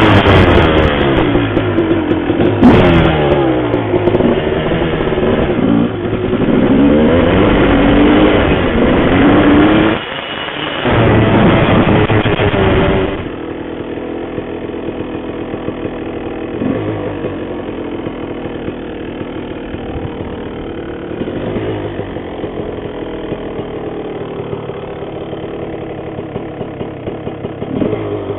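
Honda CR250R two-stroke single-cylinder dirt bike engine revving hard, its pitch sweeping up and down, with a brief dip about ten seconds in. About thirteen seconds in it drops abruptly to a quieter, steadier idle with a few light throttle blips.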